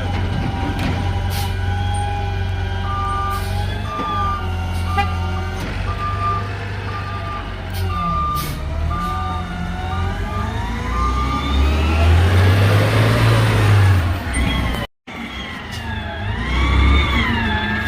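Garbage truck engine running with its backup alarm beeping about once a second, then the engine revving up for a couple of seconds. The sound drops out for an instant near the end.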